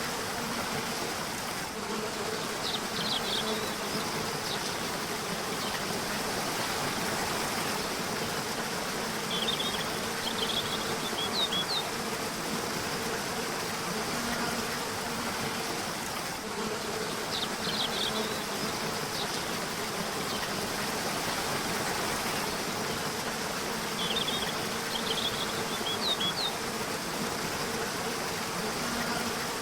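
Steady rushing of a river, with small clusters of high bird chirps about every seven seconds and a low buzzing hum that comes and goes.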